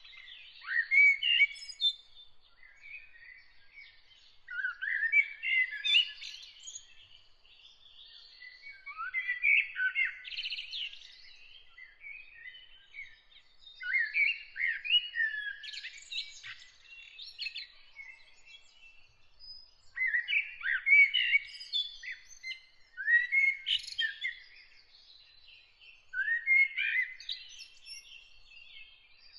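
Songbirds singing outdoors: bursts of varied, warbling phrases that rise and fall in pitch, repeating every few seconds with short pauses between them. A faint, thin, steady high note runs underneath.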